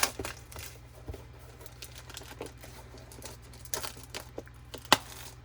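A trading-card blaster box being opened by hand: packaging crinkling and tearing, with scattered rustles and a sharp snap near the end.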